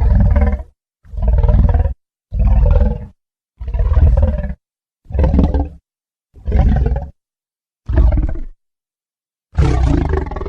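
Tyrannosaurus rex roar sound effects from a video game, played one after another: eight short, deep roars, each under a second long and cut apart by brief silences, the last one longer.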